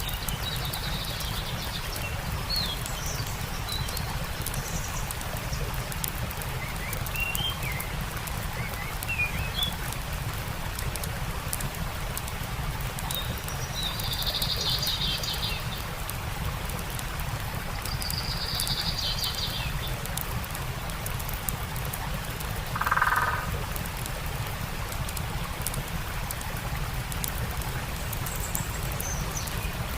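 A steady rush of running stream water with the fine, irregular crackle of a campfire, while songbirds call on and off with short chirps and warbled phrases. A lower, louder call stands out about two-thirds of the way through.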